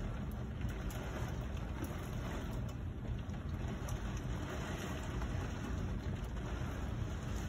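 Heavy rain and wind of a severe thunderstorm heard from indoors through a closed window: a steady rushing noise with a few faint taps.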